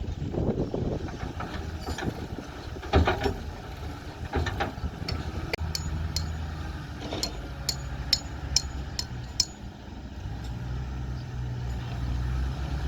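A heavy engine running low and steady, with knocks and then a quick series of sharp metallic clanks.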